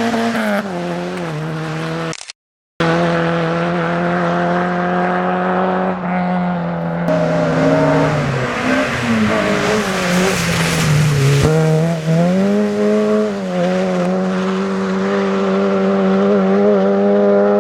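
Rally car engine running hard, its revs held high for long stretches, falling away and then climbing again. The sound cuts out for about half a second just over two seconds in.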